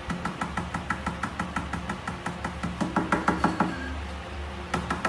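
Fast tapping on a glass tabletop, about six or seven taps a second, each with a short glassy ring. The taps grow louder around three seconds in, stop a little before four seconds, and a few more come near the end.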